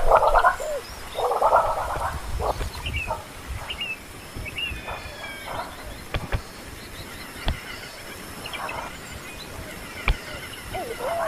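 Animal calls: two harsh, raspy bursts in the first two seconds, then scattered high chirps and a few sharp clicks, with short curving calls near the end.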